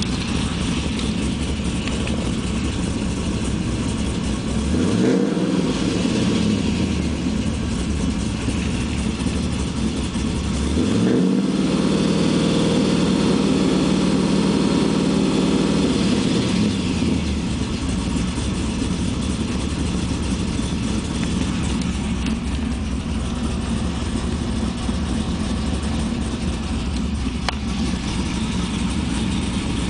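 Chevrolet LS1 5.7-litre V8 idling, revved briefly about five seconds in, then held at higher revs for several seconds before dropping back to idle. Its tick sounds like a valvetrain or lifter fault, but the owner traced it to an exhaust leak.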